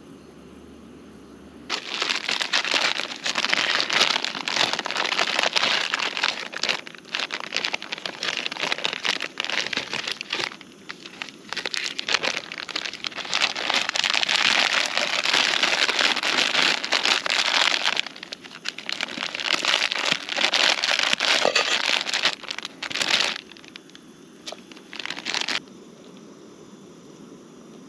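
Crinkly packaging being handled and crumpled: loud crackling rustles in bursts with short pauses, starting about two seconds in and stopping a couple of seconds before the end.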